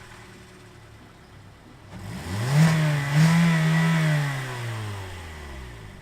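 Car engine with its stock muffled exhaust idling, then revved about two seconds in: two quick blips, held up briefly, then falling back to idle near the end.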